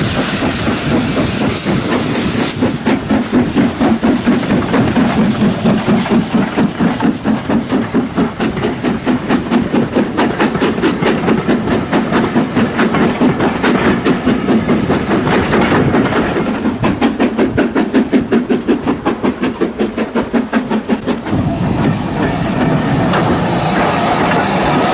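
Steam locomotive working: a steady hiss of steam at first, then about three seconds in the chuffing exhaust beats start, even and rapid at about three a second, and near the end they give way to a steady rumble.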